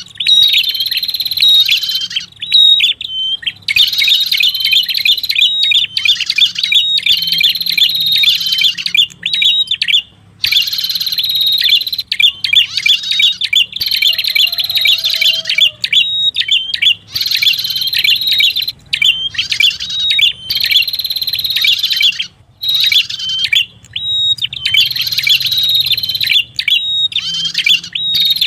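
Lure-call recording (suara pikat) of the prenjak kepala merah: rapid, trilling high chirps over a steady high note, in bursts of one to three seconds with brief pauses between, repeating over and over.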